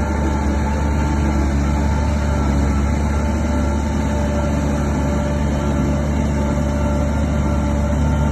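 Shantui DH17 bulldozer's diesel engine running steadily under load, a deep unbroken drone that holds one pitch.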